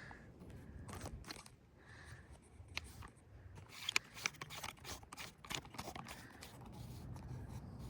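Faint scraping and light clicks and knocks, coming thickest in a quick run from about three and a half to six and a half seconds in.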